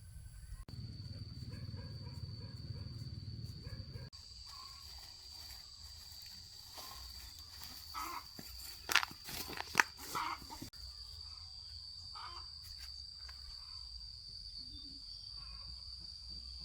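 Outdoor field ambience with a steady high insect buzz. Wind rumbles on the microphone early on, and a handful of sharp cracks and rustles come about halfway through.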